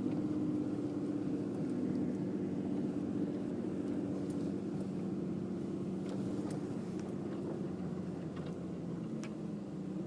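Four-wheel-drive vehicle's engine running steadily as it drives slowly over snow, with a few faint ticks.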